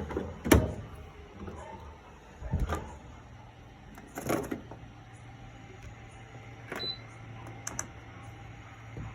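Electrolux LPE16 top-load washing machine: a few sharp clicks and knocks, then a steady low hum sets in about three seconds in, with a short hiss a second later.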